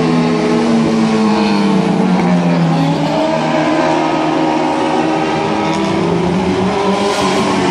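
Racing sportbike engines running hard through loud racing exhausts. Their pitch drops over the first three seconds, then climbs again and holds, with more than one bike's engine heard at once.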